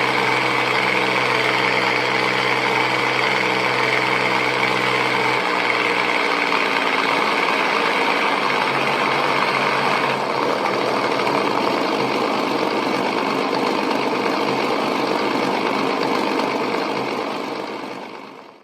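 Small propeller airplane's piston engine running steadily with a buzzing drone; its pitch shifts about five seconds in and the sound changes again around ten seconds, then fades out near the end.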